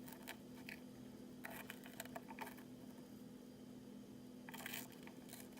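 Faint, light taps and scrapes of a small spoon being handled while sugar is spooned into milk. They come in a short cluster about a second and a half in and again near the end, over a steady low hum.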